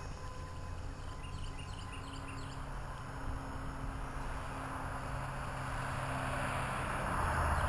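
Blade 200 SRX RC helicopter in flight: its electric motor and rotor blades make a steady low hum with a rushing whir that grows louder near the end.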